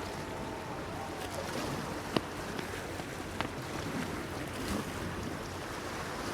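Water lapping and washing against a pier, with steady wind. Two sharp clicks about a second apart, the first the loudest.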